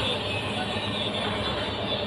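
Heavy vehicle engine running steadily with a low hum, the kind of diesel that drives a truck crane.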